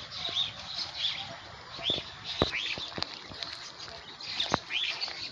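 Small birds chirping over and over in short arched calls, several a second at times. A few sharp clicks stand out among them, the clearest about two and a half, three and four and a half seconds in.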